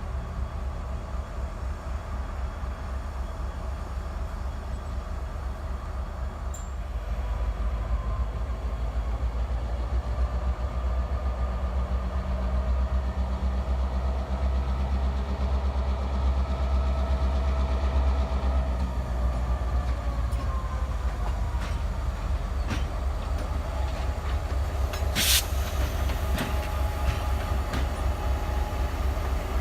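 Freight train rolling past: a continuous rumble of rail cars with wheels clicking over the rail joints, swelling in the middle. There is one sharp metallic knock about 25 seconds in.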